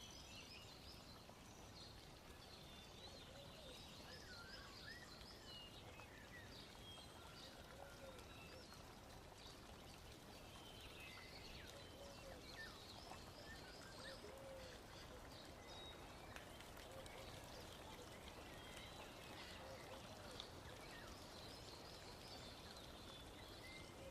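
Faint birds chirping over a low steady hiss.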